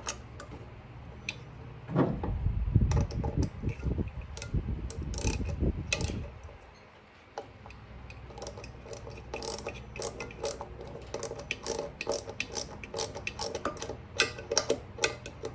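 Rapid metallic clicking and ratcheting from hand tools and small engine parts while the ignition coil is fitted to a Stihl BR340 leaf blower's engine. There are dull low thumps in the first few seconds, a brief lull, then dense sharp clicks.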